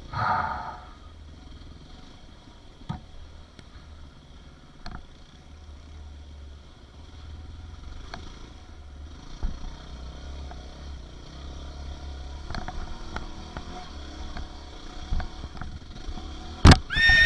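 Dirt bike engines running at low revs, with scattered knocks and clatter. There is a short louder burst right at the start, and a loud sudden noise begins near the end.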